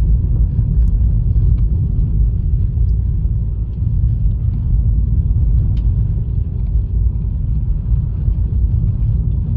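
Steady low rumble of road and engine noise heard inside the cabin of a Honda Fit on a winter road.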